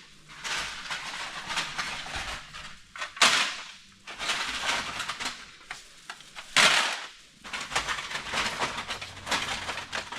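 Bags of crushed aluminum cans being handled: a continuous clatter and crinkle of metal cans and plastic bag, with two louder knocks about three and six and a half seconds in.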